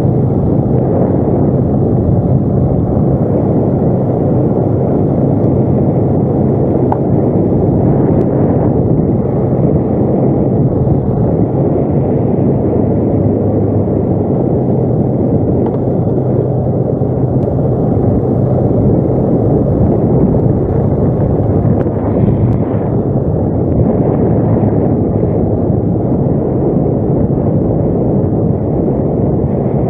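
ATV engine running steadily while riding, a constant low drone under a rough rumble.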